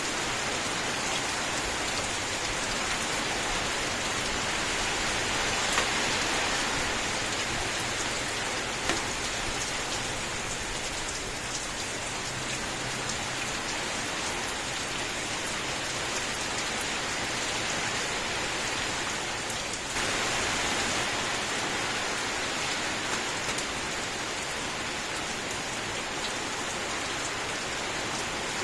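Steady rain: an even hiss of falling rain with a few louder single drop clicks. The level jumps up suddenly about twenty seconds in.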